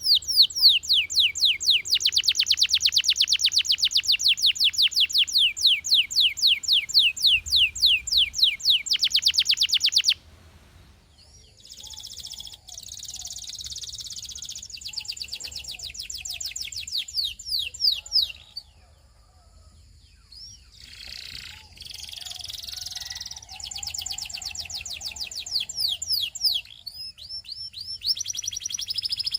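Russian canary singing: long rolling trills of fast repeated down-slurred notes that break off abruptly about ten seconds in. Softer, more varied song phrases follow, with a short pause in the middle.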